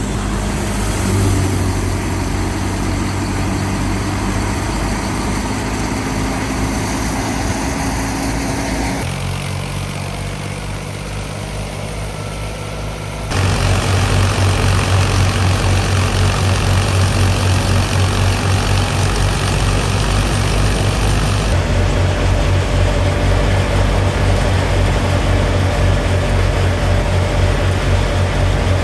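Fiat 480 tractor's diesel engine running steadily. The sound shifts abruptly about nine seconds in, then becomes louder about thirteen seconds in.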